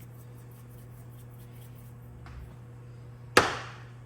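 A single sharp knock of a hard object on a kitchen surface about three seconds in, ringing off briefly, over a steady low hum.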